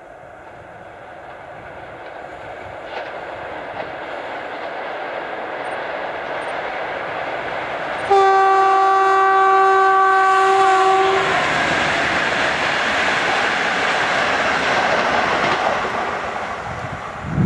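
An EU07 electric locomotive hauling a passenger train approaches, growing steadily louder. About eight seconds in it sounds one long, steady horn blast of about three seconds, the Rp1 "attention" warning. The locomotive and coaches then pass close by, loud, and the noise eases off near the end.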